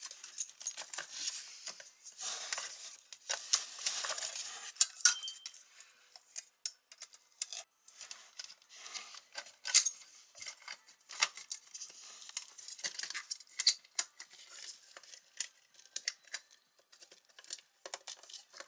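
Hand tools and small metal parts clinking, clicking and scraping irregularly as they are handled, with a few louder clacks and no engine running.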